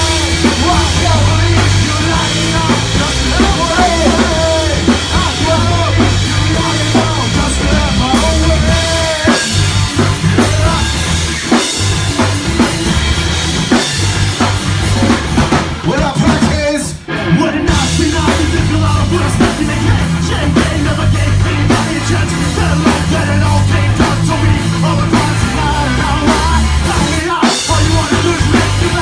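Rock band playing live: drum kit, bass and electric guitar in an instrumental stretch of the song, with a brief break about two-thirds of the way through.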